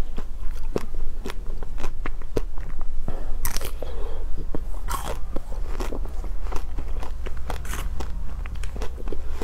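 Close-miked biting and chewing of a chocolate-coated bar, the chocolate coating crackling and crunching in the mouth. Louder crunchy bites come about three and a half, five and nearly eight seconds in, between steady small crackles.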